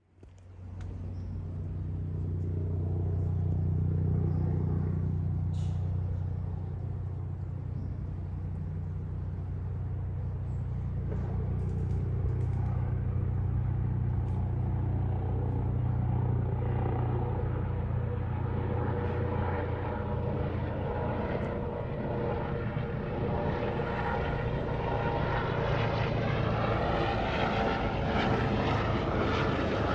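Airbus H145 twin-engine helicopter flying overhead: a steady, heavy rotor and engine sound. A higher whine grows stronger over the second half.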